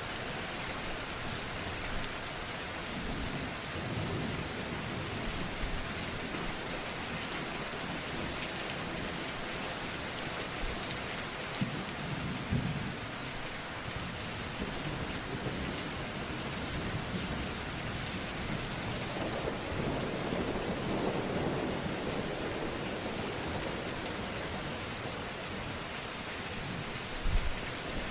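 Steady rain falling, with low thunder rumbling several times; a short low thump comes near the end.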